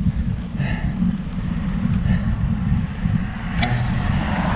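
Wind buffeting the microphone of a camera on a road bike climbing a hill, a steady low rumble, with a single sharp click about three and a half seconds in.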